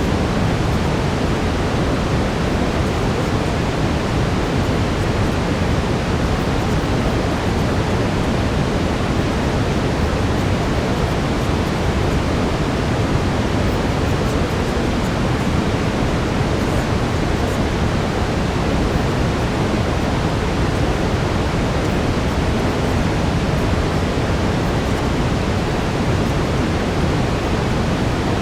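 Steady brown noise: an even, deep hiss that never changes.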